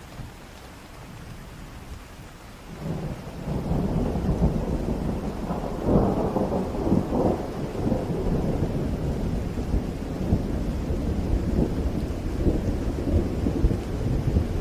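Steady rain, then about three seconds in a long rumble of thunder builds, is loudest around six seconds, and keeps rolling over the rain to the end.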